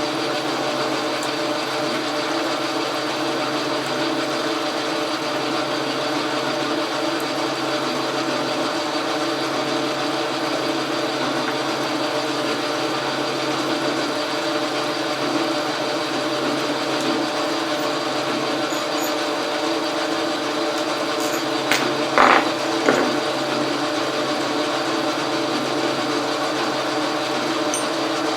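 Logan metal lathe running steadily with a gear whine while it takes a turning cut. Two or three brief sharp clicks come about two-thirds of the way through.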